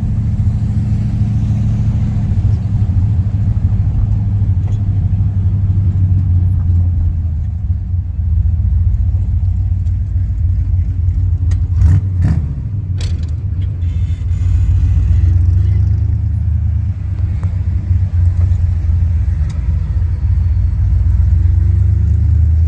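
Old hot rod's engine running with a steady low rumble of engine and road noise while driving, with a couple of sharp clicks about halfway through.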